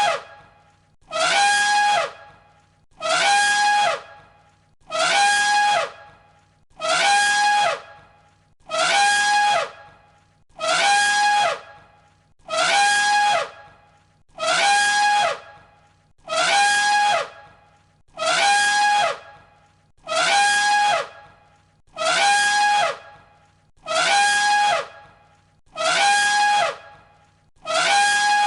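Elephant trumpeting: the same short, high call repeated about every two seconds, each one ending in a falling glide.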